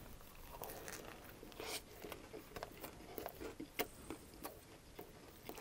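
Close-miked mouth chewing a bite of tortilla wrap: faint, irregular wet clicks and soft crunches.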